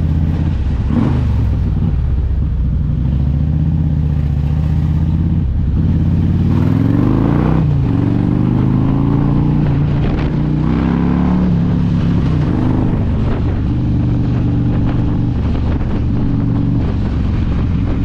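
Motorcycle engine running under way, its pitch rising and falling as the bike accelerates and shifts gears, with a clear climb partway through. Wind and road noise run underneath.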